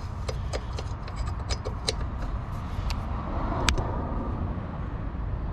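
Wrench and metal clicks and clinks from straining to loosen the jam nut on the wastegate actuator rod of a 1.8T turbo, with one sharper click about two-thirds of the way through, over a steady low rumble.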